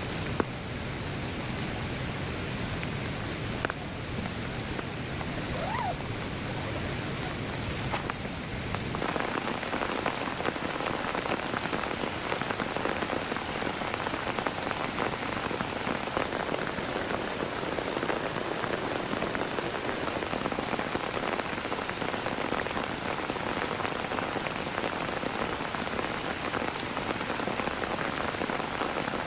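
Heavy rain falling steadily, a dense patter of drops that grows a little louder and denser about nine seconds in.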